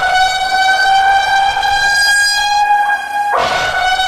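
Civil defence landslide warning siren sounding a long, steady tone from a loudspeaker, breaking off briefly about three seconds in and starting again: the alarm telling residents to leave for safe places because of landslide risk.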